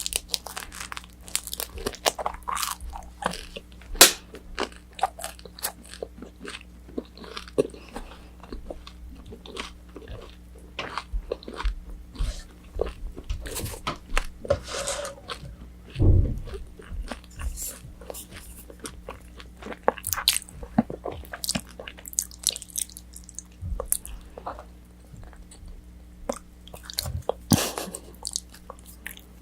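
Close-miked eating of crispy fried orange chicken: crunchy bites and chewing with rapid, irregular crackles, plus a few louder bites.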